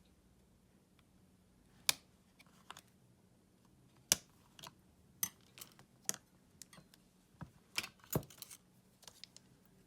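Irregular sharp clicks and taps of small repair tools and parts against a smartphone and the work surface, about a dozen strokes with loose spacing and a few louder knocks in the second half.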